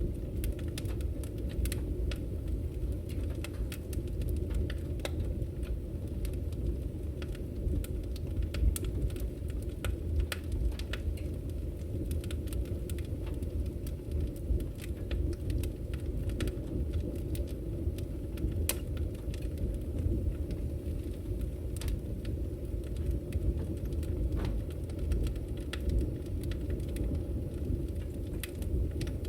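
Wood fire burning in a fireplace: a steady low roar of the flames with frequent sharp crackles and pops from the firewood.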